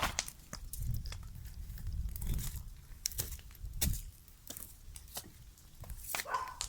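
Cardboard and junk being handled, crumpled and torn, giving scattered sharp crackles and rustles at irregular intervals over a low rumble.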